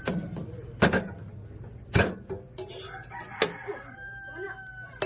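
A rooster crowing in the background, heard as a drawn-out call near the end, over several sharp knocks and clatters about a second apart.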